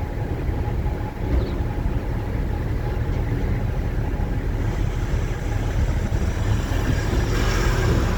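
Engine and road noise of a manual-transmission vehicle under way, heard from inside the cabin: a steady low rumble, with a short rush of noise near the end.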